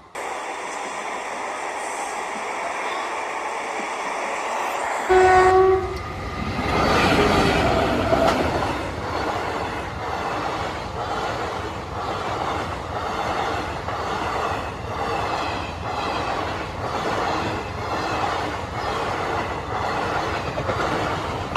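An express train hauled by twin WAP-5 and WAP-4 electric locomotives approaches with a rising rumble, then gives one short, loud horn blast about five seconds in. It then passes close by, its coach wheels clattering over the rail joints in a steady clickety-clack of about one knock a second.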